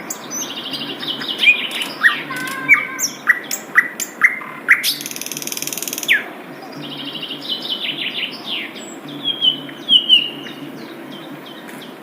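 Sikatan londo flycatcher singing: a busy run of sharp chirps, quick upward-sweeping notes and short trills, pausing briefly after the middle. A short hiss sounds about five seconds in, over a steady low hum.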